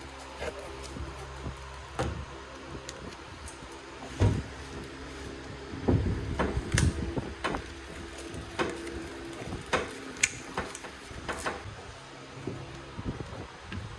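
Irregular knocks and clinks, like tools and parts being handled on a workbench, over a steady low hum. The knocks come thickest from about four seconds in until a couple of seconds before the end.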